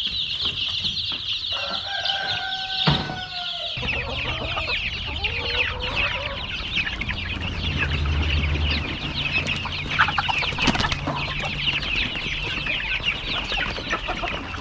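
A flock of chickens clucking and calling together in a constant dense chatter, with a low steady hum coming in about four seconds in.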